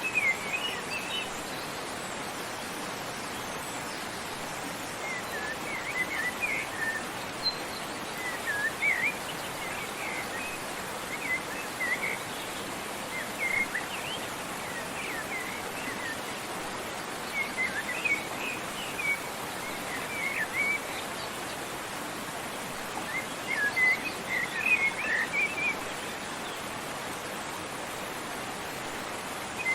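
Steady rushing water with a songbird singing over it in short chirping phrases every few seconds.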